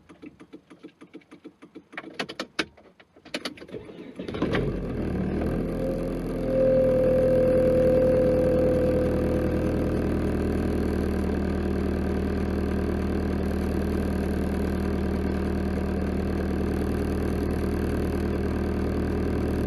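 A few clicks from the key and ignition, then a 1998 Volvo S40's engine starts about four seconds in. It runs a little faster and louder for a few seconds, then settles into a steady idle. The owner reads the vibration at this idle, felt through the dashboard, as a sign that something is loose, a suspected worn engine mount.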